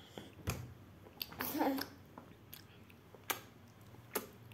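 Young children chewing and crunching biscuits, with a few short sharp crunches and a brief child's vocal sound about a second and a half in.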